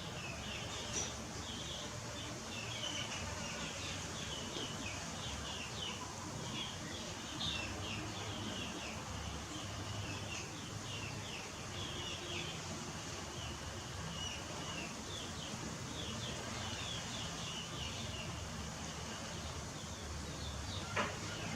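Small birds chirping continuously, many short high chirps in quick succession, over a steady low outdoor rumble; a single sharp click near the end.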